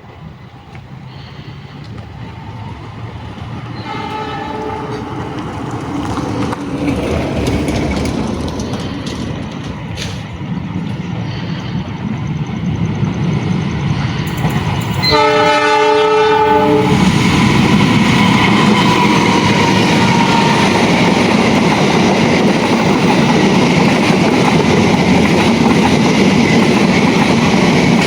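Diesel-electric locomotive-hauled train approaching and passing, getting steadily louder. The locomotive's multi-tone horn sounds briefly about four seconds in, then gives a louder blast of about two seconds midway. After that comes the loud, steady rumble and clatter of the locomotive and carriages going by.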